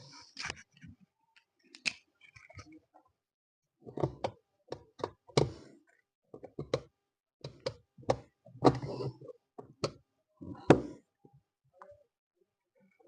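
Irregular knocks, clicks and clatter of tools and plastic parts being handled while a washing machine's pulsator is unscrewed and pulled off, with a heavier scraping knock about nine seconds in.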